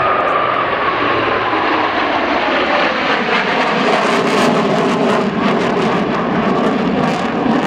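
Blue Angels F/A-18 Hornet jet flying past, its loud jet noise steady throughout and its engine whine falling in pitch over the first few seconds as it goes by.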